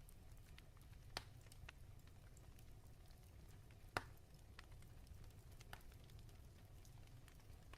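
Fireplace fire crackling faintly over a low rumble, with scattered small snaps and two louder pops, about a second in and about four seconds in.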